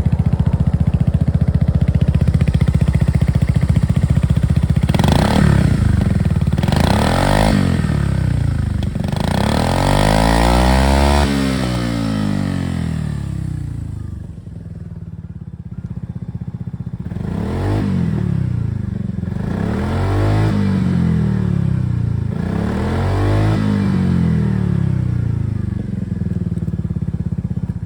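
Yamaha Maxam SG21 scooter's single-cylinder four-stroke engine idling and being revved up several times, each rev rising and falling back to idle, with one longer rev about ten seconds in; it revs up freely.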